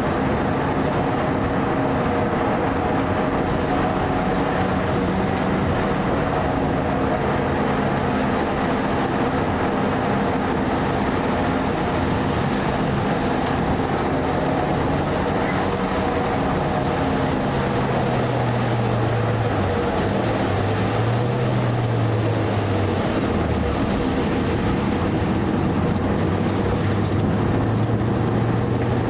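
Mitsubishi Lancer Evo IV's turbocharged four-cylinder engine heard from inside the cabin under track driving. The engine note rises and falls with revs and gear changes, with the biggest dips and recoveries a little past halfway, over constant road and wind noise.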